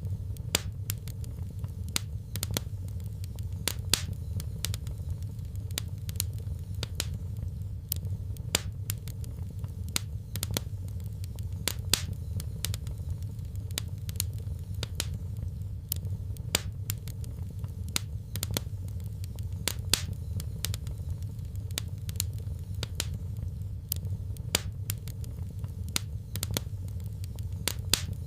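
Wood fire in a fireplace crackling, with sharp irregular pops and snaps a few times a second over a steady low rumble of the flames.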